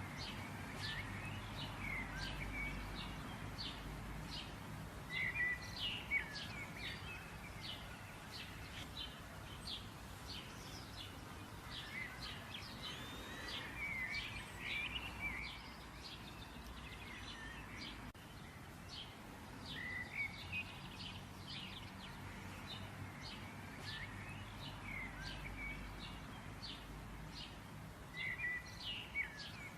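Birds chirping: many short, quick chirps and calls, some in clusters, over a low steady background rumble.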